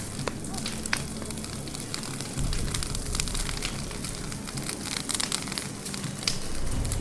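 Wildfire crackling: an irregular scatter of sharp pops and snaps from burning vegetation, over a low rumble.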